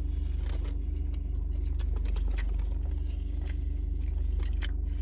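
A person chewing a mouthful of glazed donut, with small wet clicks and smacks scattered through, over a steady low hum.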